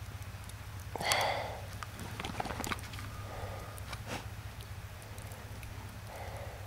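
Neapolitan mastiff sniffing and snorting, with one louder snort about a second in and softer puffs later. A few light clicks and knocks are mixed in.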